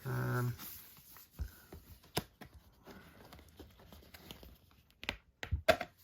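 Cardboard packaging being handled as a card wrap is slid off a collector's box: scattered soft scrapes, taps and clicks, with a few louder knocks near the end.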